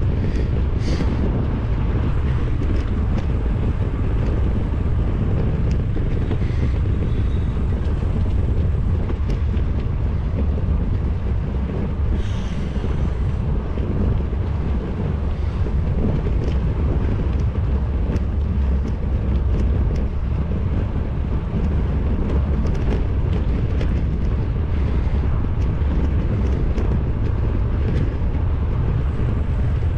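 Wind rushing over the microphone of a bicycle-mounted GoPro while riding, a steady low rumble.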